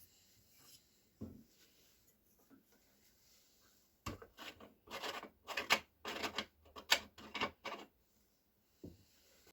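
A quick run of about ten short rubbing strokes, starting a little before halfway, with a soft knock about a second in and another near the end.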